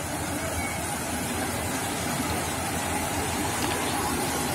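Kubota ER112 combine harvester running, a steady dense mechanical noise with a low rumble that does not let up.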